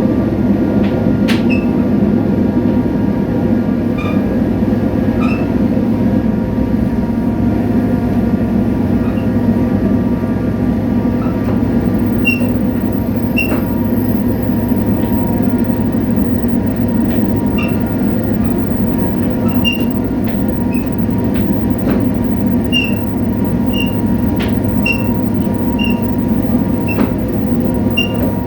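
Korail 7300-class diesel locomotive No. 7351 (an EMD GT26CW-2) running steadily on the move, a low, even engine drone. Many short high squeaks from the wheels and occasional clicks are scattered over it.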